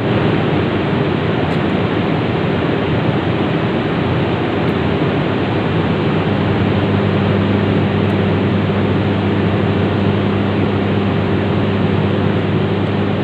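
A machine running steadily: an even rushing noise with a low, constant hum underneath, unchanging throughout.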